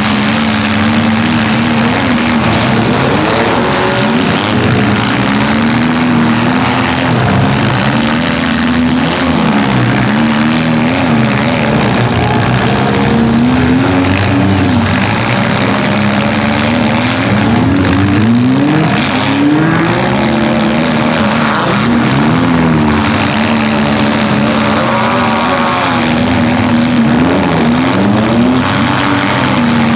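Several compact demolition-derby cars' engines revving up and falling back over and over as they drive and ram one another, with a few impacts partway through.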